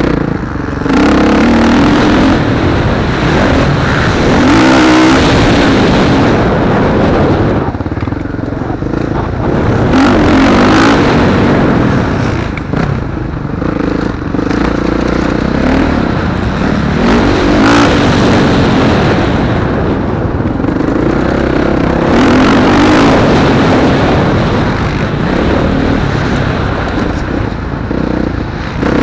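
Motocross bikes racing, their engines revving up hard and dropping off again and again as riders accelerate and back off around the track.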